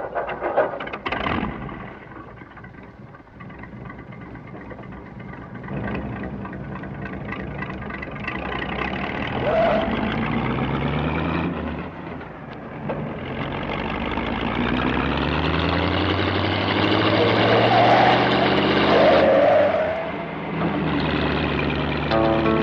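A car engine running and being revved, its pitch sliding up and down over several seconds, loudest a little past the middle.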